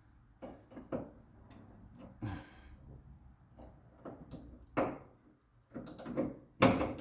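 Hand tools clinking and knocking against the steering rack's mounting nuts and bolts under a 1959 Triumph TR3: scattered single knocks and scrapes, the loudest bunched near the end.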